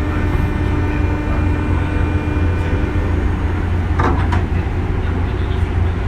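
JR 201 series electric train running, with a steady low rumble of wheels and motors. A steady hum fades out about three and a half seconds in, and there is a brief clatter about four seconds in.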